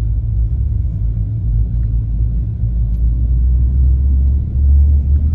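Low steady rumble of a lifted pickup truck driving slowly, heard from inside the cab, growing a little heavier near the end.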